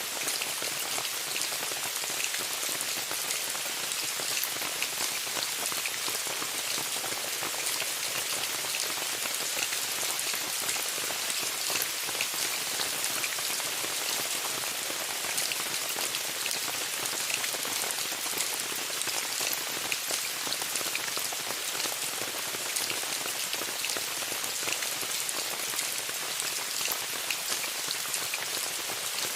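Steady rain falling on a tent, a dense even hiss of drops with many small individual drop taps and no change in strength.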